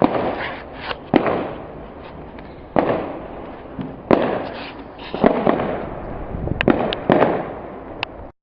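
Fireworks going off, a string of sharp bangs about a second apart, each with an echoing tail, and a steady background of distant bangs between them. The sound cuts off suddenly near the end.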